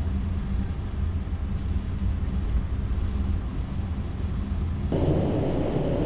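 Cockpit noise of a Cessna Citation V jet on short final: a steady low rumble of engines and airflow. About five seconds in it changes abruptly to a louder hiss with a high whine on top.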